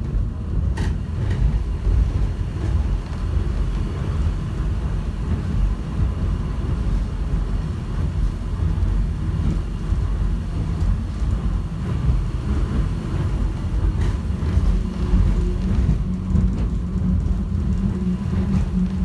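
Airport subway train running at speed, heard from inside the car: a steady low rumble with a couple of faint ticks. A low steady hum comes up about three-quarters of the way through.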